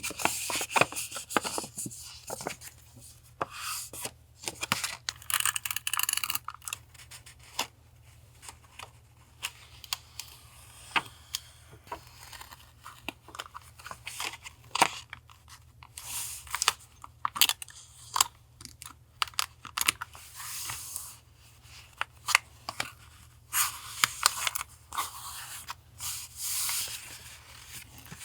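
Paper being torn and handled for collage journaling: several short bursts of tearing and rustling, with many small clicks and taps between them.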